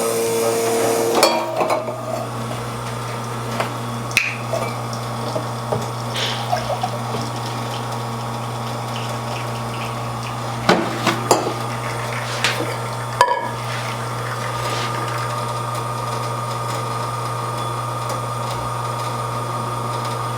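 Espresso machine at work: a steady hum with liquid dripping and filling, and several sharp knocks and clinks of cups and metal parts, a cluster of them a little past the middle. A steady higher tone joins the hum about two-thirds of the way in.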